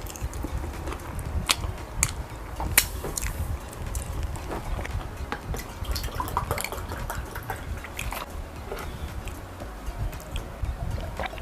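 Mukbang eating sounds of fufu with okra soup: wet smacking, squelching and chewing, with a few sharp clicks in the first three seconds.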